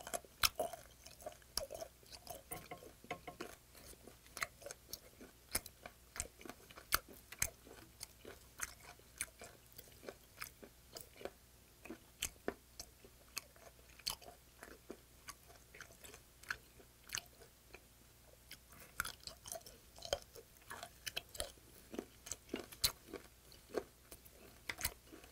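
Close-miked chewing of raw yellow stingray sashimi: wet mouth sounds with sharp clicks about one or two a second and occasional crunches of the fish's tough cartilage.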